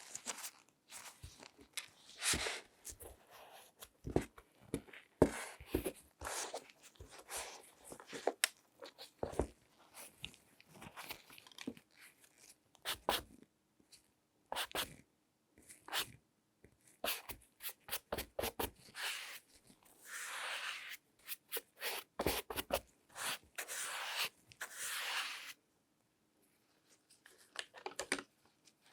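Close-miked handling sounds from latex-gloved hands examining a shoe: quick irregular taps and clicks mixed with short scratchy rubbing strokes, with a brief pause about three-quarters of the way through.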